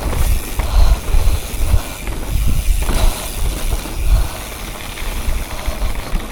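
Wind rumbling on the microphone and tyres rolling over dirt as a mountain bike is ridden along a jump trail, a steady rushing noise with heavy low buffeting.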